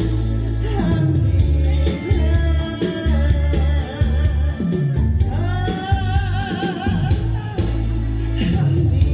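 A solo singer sings a Korean ballad-style song over instrumental backing music. Long, wavering held notes ride over a steady bass line.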